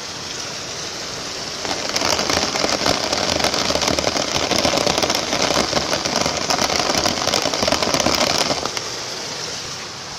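Heavy rain with water pouring steadily, swelling into a much louder crackling rush from about two seconds in and dying back down near the end.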